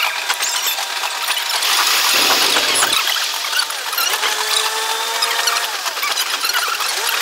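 A diesel train's running noise, sped up six times so it sounds shrill: gliding whistle-like tones and rapid clicking, with a brief louder rush about two seconds in.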